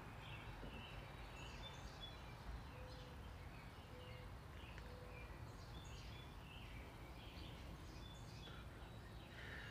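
Faint outdoor ambience: small birds chirping now and then over a steady low background rumble, with three short low notes about a second apart midway through.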